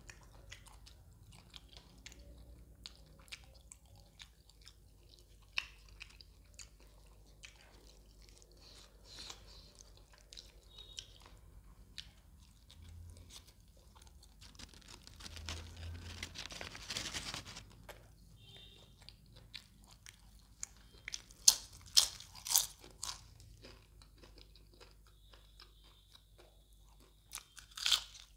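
Close-up mouth sounds of a man chewing fish curry and roti, with scattered wet clicks and sharp crunchy bites. There is a longer noisy stretch about halfway through, a cluster of loud crunches about three-quarters through, and more near the end.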